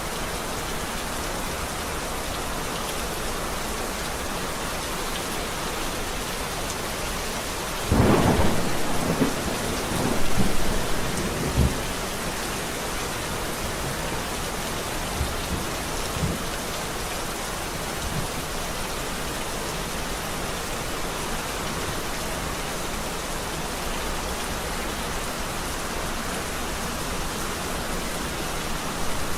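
Steady heavy rain, with a thunderclap about eight seconds in that rumbles and crackles for some four seconds, and another thunderclap starting at the very end.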